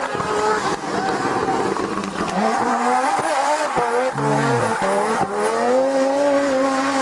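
Rally car engine revving hard, its pitch climbing and dropping with gear changes and lifts of the throttle, over a steady rush of tyre and surface noise.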